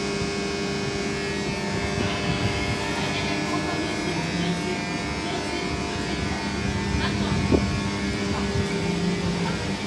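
Steady, layered electrical hum and whir from an Intercités train's locomotive and Corail coach equipment. A single sharp knock comes about seven and a half seconds in.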